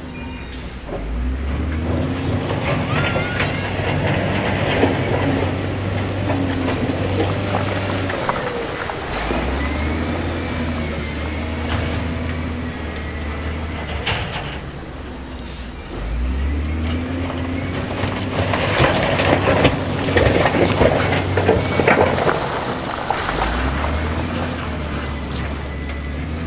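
Heavy diesel earthmoving machinery working stone: the engine revs up under load about every seven seconds and settles back between pushes, with stone scraping and rattling, loudest about two-thirds of the way through.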